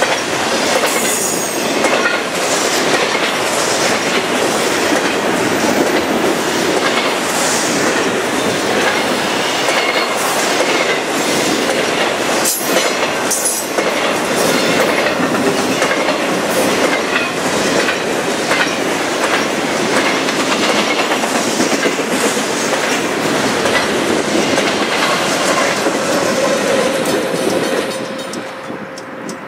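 Double-stack intermodal container cars rolling past at speed: a steady rumble with the clickety-clack of steel wheels over the rails. The sound falls away near the end as the last car clears.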